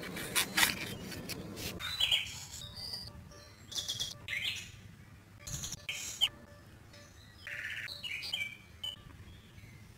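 Birds chirping and tweeting in short, scattered calls, fainter in the second half.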